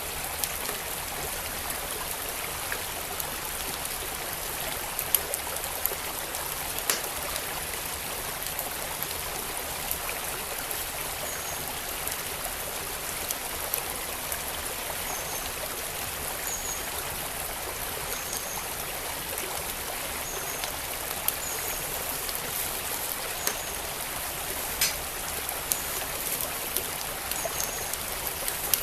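Steady rushing of a flowing stream, with the irregular sharp pops and crackles of a burning wood fire scattered through it. From about eleven seconds in, a faint high chirp repeats every second or two.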